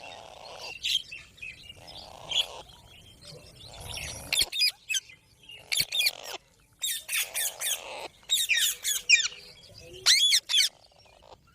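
Green parrot calling: clusters of short, sharp shrieks, each note sliding down in pitch, coming in quick runs that grow louder and more frequent in the second half.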